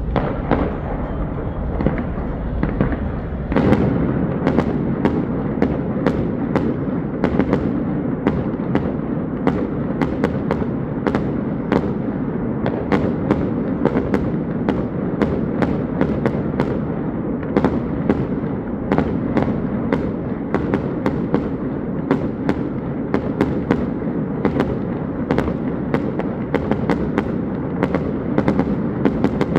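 Fireworks show: a rapid, continuous barrage of bangs and crackles over a steady rumble, growing louder and denser about three and a half seconds in.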